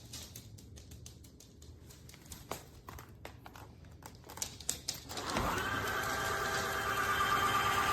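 Dreame H12 Pro cordless wet-dry vacuum's motor starting up about five seconds in, quickly rising to a steady whine with a hiss, after a few faint clicks.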